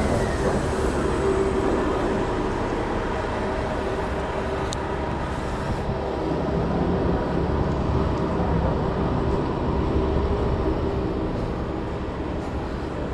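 Steady low rumble of a large vehicle, with a faint steady hum running through it and a single sharp click about five seconds in.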